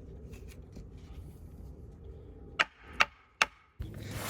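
Three sharp knocks about 0.4 s apart, each with a brief ring, near the end: the top of a sharpened wooden stake being hammered to drive it into the ground.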